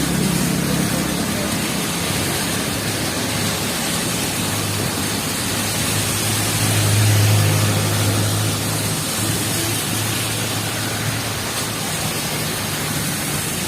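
Heavy rain falling in a steady hiss. A low vehicle engine hum runs under it and swells about halfway through, as if a vehicle passes close by.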